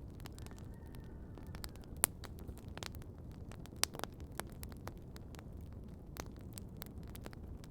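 Outdoor wood campfire crackling, with irregular sharp pops, the loudest about two seconds and about four seconds in, over a steady low rumble.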